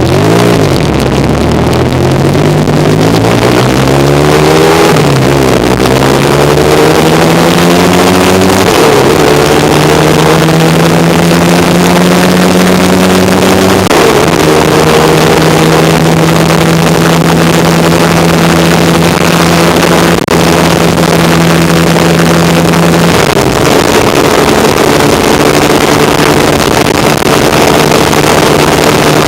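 1975 Kawasaki KZ400 parallel-twin motorcycle engine under way. The revs climb and drop as it shifts up about five and nine seconds in, then it runs at a steady cruise, easing back slightly about two-thirds of the way through. A steady rush of wind noise runs under it.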